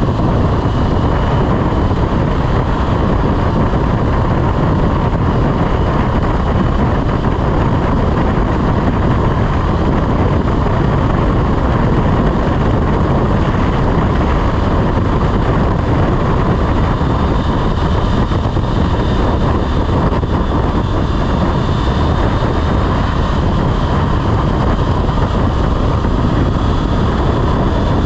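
Motorcycle riding along at steady road speed: engine running under a constant rush of wind noise on the microphone.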